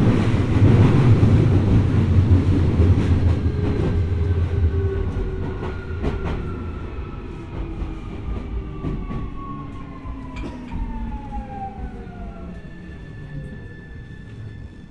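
Keio 1000 series (3rd batch) electric train slowing: wheel and rail rolling noise fades while the inverter-driven traction motors give a falling multi-tone whine under braking. Near the end the pitch settles into a steady tone.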